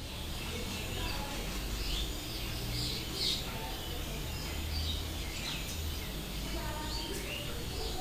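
Faint, scattered short bird chirps over a low, steady rumble of room noise.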